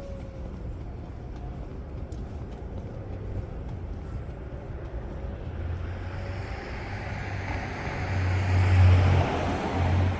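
City street traffic rumbling steadily, with a road vehicle passing close by: its engine and tyre noise swell over the second half, are loudest about nine seconds in, then fade.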